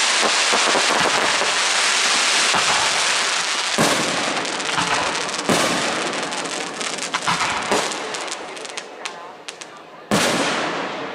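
Aerial fireworks shells bursting overhead: a dense crackling wash of burning stars, broken by sharp bangs about four, five and a half, and ten seconds in. A quick run of crackles comes between seven and nine seconds, and the noise slowly dies down toward the end.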